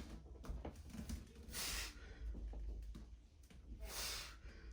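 Heavy breathing from exertion: two short, breathy exhales about two seconds apart, paced with diamond push-up repetitions.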